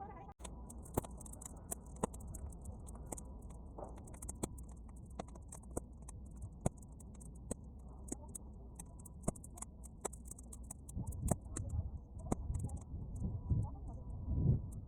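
Bonfire of damp, half-dried weeds crackling, with irregular sharp pops and snaps. From about two-thirds of the way in, wind buffets the microphone with low gusty rumbles.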